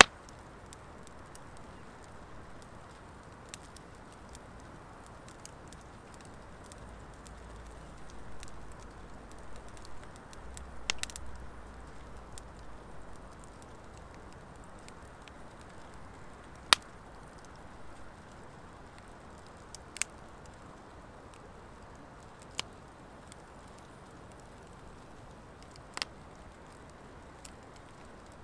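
Driftwood and hardwood logs burning in a steel fire pit: a steady low hiss with sharp, widely spaced crackling pops, about half a dozen, one noticeably louder than the rest. A low rumble swells briefly in the middle.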